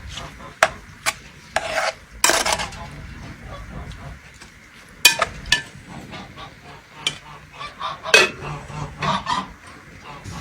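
A utensil scraping and clinking against a cooking pot in irregular strokes, with a few longer scrapes about two seconds in.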